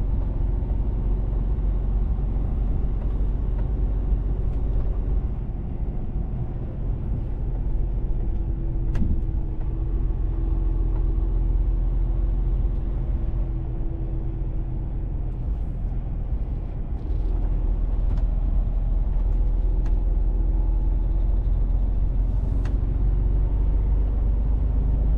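Mercedes-Benz Actros truck running on the road: a steady low engine rumble with a faint tone that drifts up and down, growing louder about seventeen seconds in.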